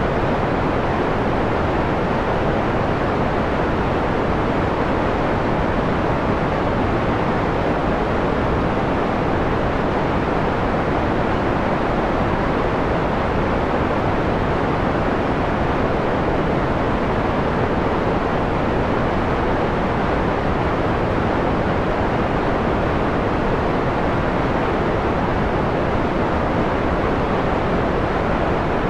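Steady white noise filtered to a mellow, dull rush, its high hiss largely rolled off. It runs evenly, with no change in level.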